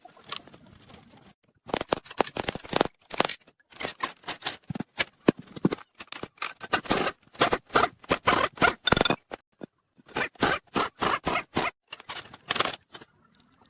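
Quick repeated scraping strokes in runs, several a second, with a short pause about two-thirds of the way through.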